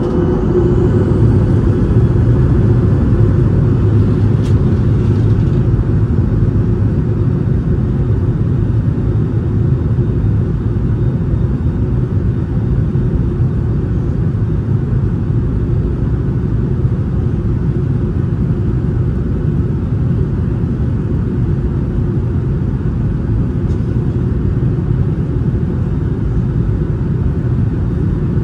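Boeing 737-800 cabin noise: a steady, loud roar of the CFM56 jet engines and airflow heard from inside the cabin. It swells over the first couple of seconds and then holds level.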